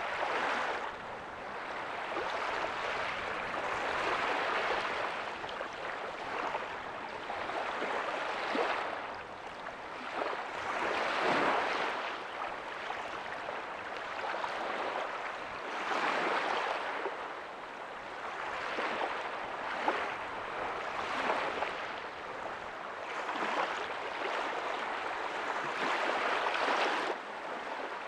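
Small ocean waves breaking softly on a beach: a steady wash of surf that swells and falls every few seconds.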